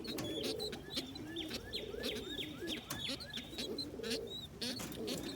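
Several domestic pigeons cooing, low and overlapping, with a run of quick, high, falling peeps about a second in and scattered light clicks.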